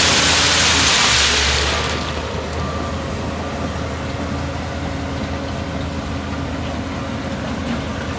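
Heavy diesel engine of earthmoving machinery running steadily. A loud rushing noise lies over it for the first couple of seconds, then dies away, leaving the lower engine hum.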